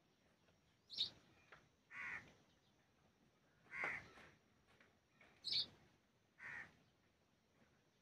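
Birds calling: five short calls, spaced a second or more apart. Sharp, high chirps come about a second in and again past the middle, and lower, longer, harsher calls come about two, four and six and a half seconds in.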